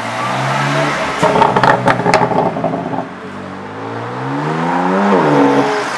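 BMW M4's turbocharged straight-six accelerating away. A burst of sharp exhaust crackles comes about a second in, then the revs climb through a gear and fall sharply at an upshift near the end.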